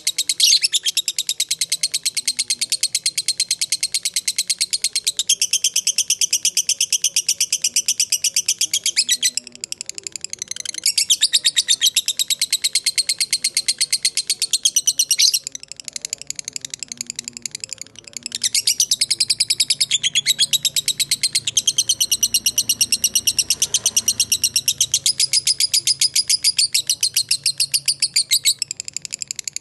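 Lovebird giving its long, rapid chattering trill ("ngekek panjang"): a fast, high-pitched stream of repeated notes in long runs, broken by a few short pauses.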